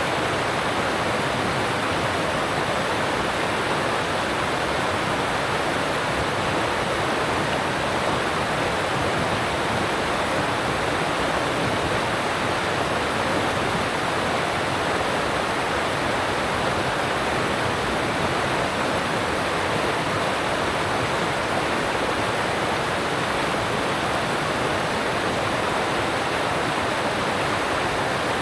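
Alpine mountain stream rushing over rocks: a steady, even rush of water with no change throughout.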